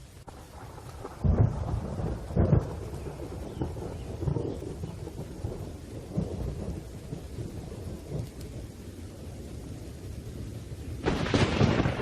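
Thunderstorm: low rolling thunder over a steady hiss of rain. It starts suddenly, with two heavy booms of thunder about a second and two and a half seconds in, and swells again near the end.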